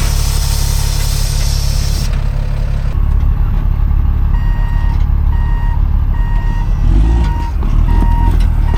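A truck engine running steadily. About four seconds in, a backup alarm starts beeping, about one and a half beeps a second, as the truck reverses.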